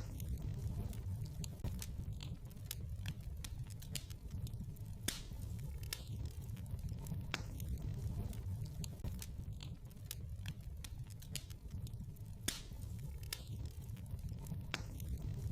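Wood fire burning in a fireplace: a steady low rumble of flames with irregular crackles and sharp pops.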